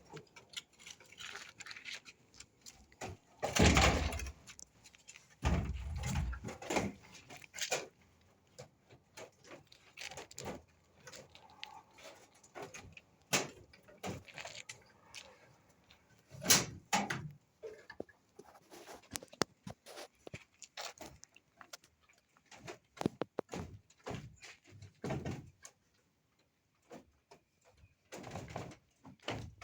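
Irregular knocks, thuds and clatter of hands-on work with tools and materials. The loudest thuds come about four and six seconds in and again around sixteen seconds, with smaller clicks and taps between them.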